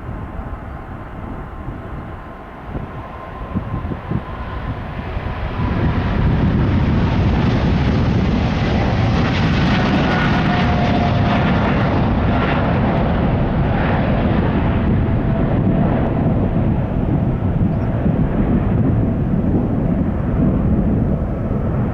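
Jet airliner taking off, its engines at take-off thrust. The sound swells to a loud, steady roar about five seconds in, with a faint whine riding over the rumble.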